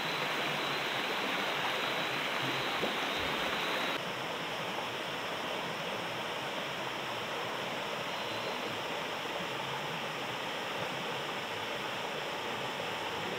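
Steady rush of water, an even hiss and roar with no distinct events; it drops a little in level about four seconds in.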